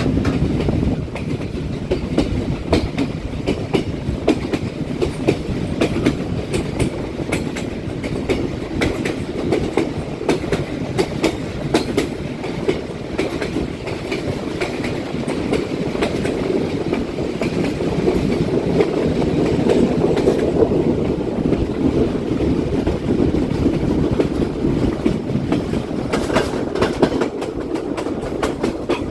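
Passenger train running along the line, a steady rolling rumble with many sharp clacks and knocks from the wheels over rail joints.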